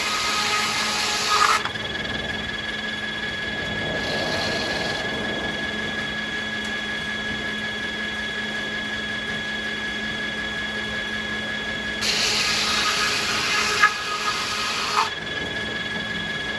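Sawmill machinery running with a steady hum, while a saw cuts through beech: a loud cut right at the start that stops about a second and a half in, and another from about twelve seconds in, with a couple of sharp knocks near its end.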